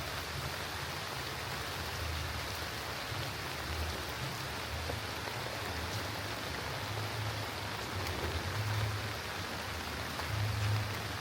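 Steady rain falling, a continuous even hiss, with an uneven low rumble underneath.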